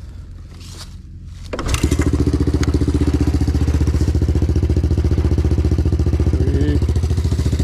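Small carbureted engine idling with a rapid, even pulse, coming in loud about a second and a half in after a low hum. It runs without the choke, which the owner takes for a pilot circuit set too rich.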